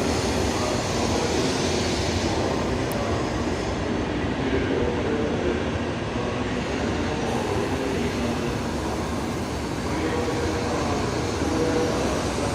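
Steady noise from a Tokaido Shinkansen passenger car: a continuous low rumble with hiss over it and no distinct events.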